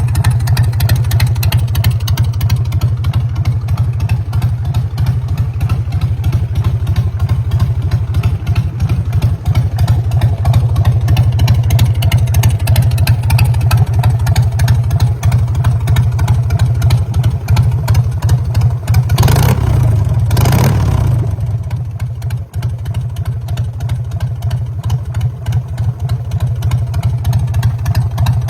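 Motorcycle engine running with a rapid, even string of firing pulses, blipped twice in quick succession about two-thirds of the way through, then settling back to a slightly quieter idle.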